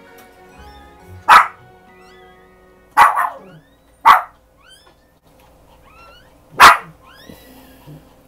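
Pomeranian barking four times in short, sharp barks spread a second or two apart, over soft background music.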